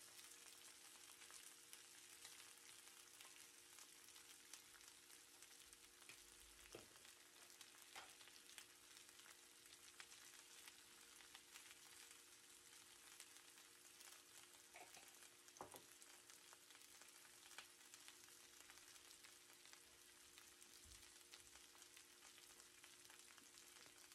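Potato wedges frying in a stainless steel pan, a faint, steady sizzle full of fine crackles, with a few louder pops. A faint steady hum lies underneath.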